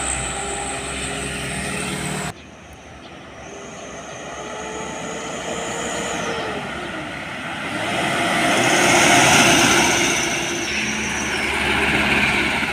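Road traffic with trucks passing close by: engine and tyre noise swells and fades as each vehicle goes past, with a whine that drops in pitch about six seconds in. The sound drops suddenly about two seconds in.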